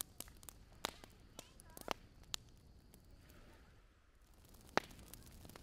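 Small driftwood campfire crackling, with sharp pops at irregular intervals, the loudest near the end.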